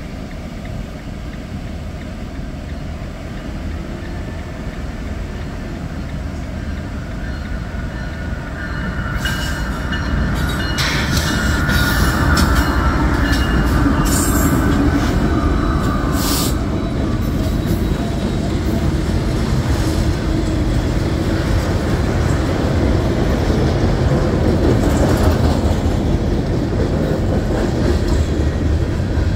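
Freight train passing close by: diesel locomotives rumbling past, then freight cars rolling and clattering over the rails. The rumble grows louder about ten seconds in, with brief high wheel screeches between about nine and seventeen seconds in.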